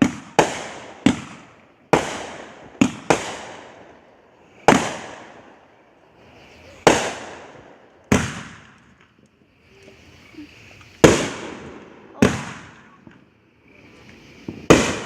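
Fireworks grand finale: about a dozen loud, sharp bangs at uneven spacing, each trailing off in a long echoing tail, with a faint crackle between some of them.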